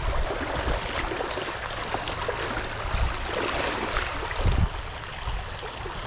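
Creek water flowing, a steady rushing hiss, with a brief low bump about four and a half seconds in.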